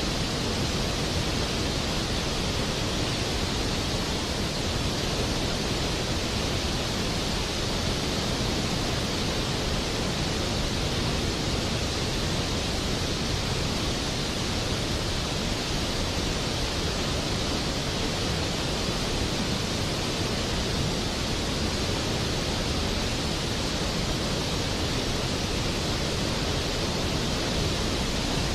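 Steady, unbroken rain hiss, even throughout with no thunder or separate drops standing out.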